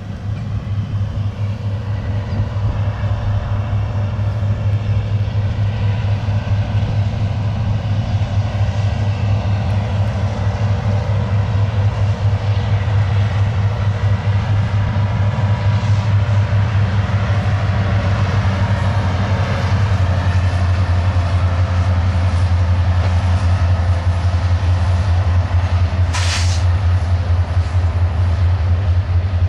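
A loaded coal train hauled by EMD diesel locomotives passes by: a steady low diesel drone over the rumble of the train, shifting slightly in pitch about two-thirds of the way through. A brief hiss sounds near the end.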